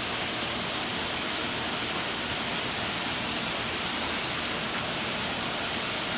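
Steady rushing water noise from a saltwater aquarium's circulation and filtration, even and unchanging throughout.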